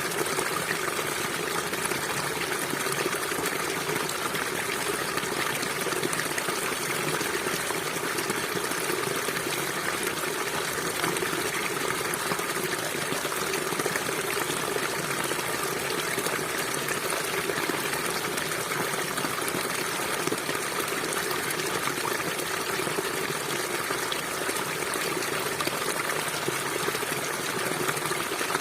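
River water flowing and gushing steadily over rocks, a continuous even rush with trickling.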